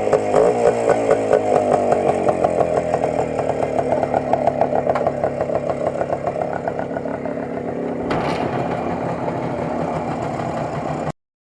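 Motorcycle engine running loud and close, its pulsing note slowly falling in pitch as it slows. The sound cuts off abruptly near the end.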